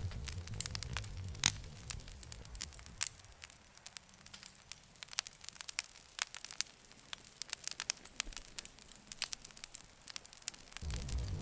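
Campfire crackling and popping, with sharp snaps several times a second. Under it is a low rumble that fades away a few seconds in and cuts back in abruptly near the end.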